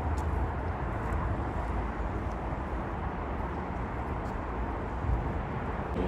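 Metro-North train running past the platform: a steady rumble and hiss with faint scattered clicks.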